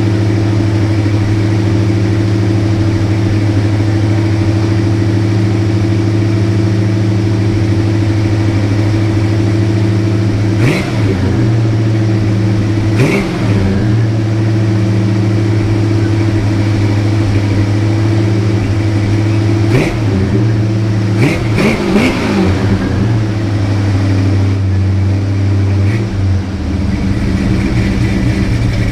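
Chrysler V8 of a 1979 Chrysler Cordoba idling steadily from cold, first start after months of sitting, heard at the tailpipes. The throttle is blipped in short revs: twice about a third of the way through, then a quick run of three or four about two-thirds in.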